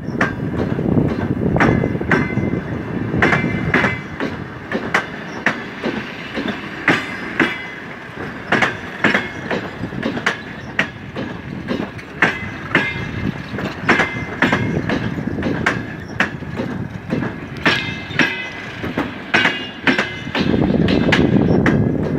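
Wheels of passenger railway carriages clattering over rail joints: sharp knocks, often in quick pairs, over a steady rolling rumble, with a metallic ring. The rumble grows louder near the end.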